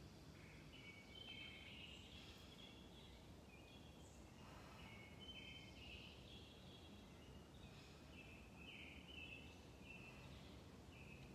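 Faint birdsong over quiet outdoor ambience: short whistled notes come and go throughout at a few different pitches.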